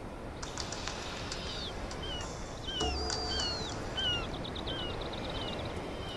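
Small birds calling: a string of short downward-slurred chirps repeated every half second or so, two longer falling whistles, and a fast run of ticking notes about four seconds in, over a steady low hiss of wind.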